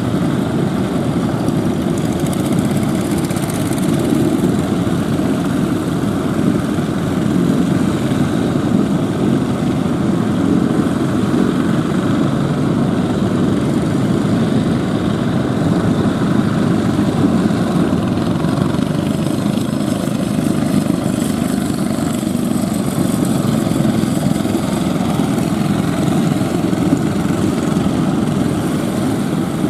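Fishing boat engines running steadily.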